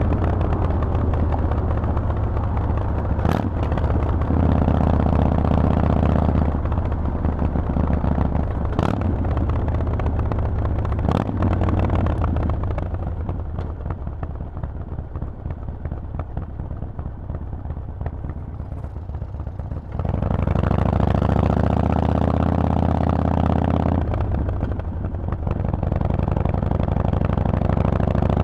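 Harley-Davidson Forty-Eight's air-cooled V-twin running through a Vance & Hines exhaust while being ridden, loud, with a few sharp clicks in the first half. Around the middle it drops to a quieter, off-throttle note for several seconds, then pulls loud again about two-thirds in, with a brief dip shortly after.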